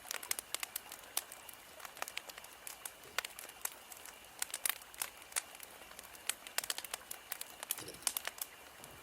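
Wood fire crackling, with frequent irregular sharp pops and snaps over a faint hiss.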